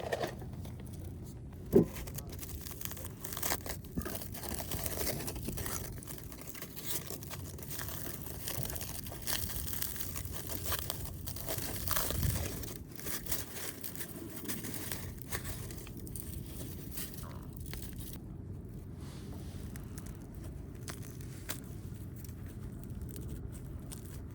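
Light crinkling, scraping and clicking of things being handled, with one sharp knock about two seconds in.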